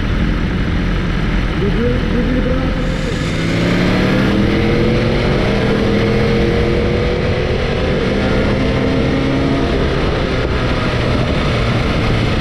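Sport motorcycle under way, with heavy wind rush on the microphone. The engine note climbs gradually from about two seconds in as the bike accelerates, then holds fairly steady.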